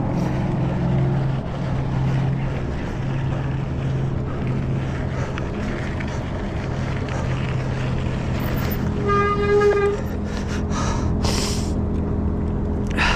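A vehicle's steady low engine hum, with one short horn toot lasting about a second, about nine seconds in.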